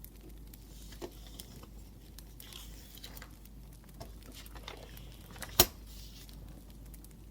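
Pen writing on paper in short scratchy strokes, over the faint crackle of a wood fire. One sharp, loud click comes a little over five and a half seconds in.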